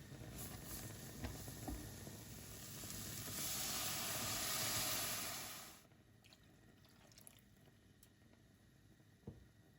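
Water running from a tap, swelling and then shut off abruptly a little over halfway through, followed by faint small clicks and one short knock near the end.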